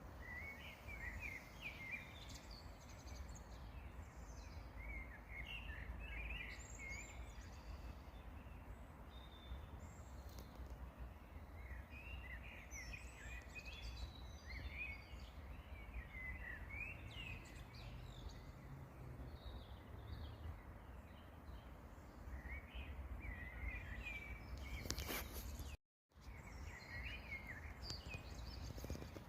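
Songbirds singing in short, repeated chirpy phrases, faint, over a steady low rumble. The sound drops out briefly to silence near the end.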